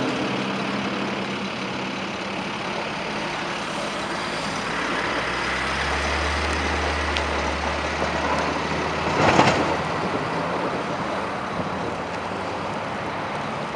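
Heavy snowplow truck's diesel engine running as it goes by, a low engine sound that swells from about four seconds in and fades after nine, over steady road and snow noise. There is a short, loud burst of noise about nine and a half seconds in.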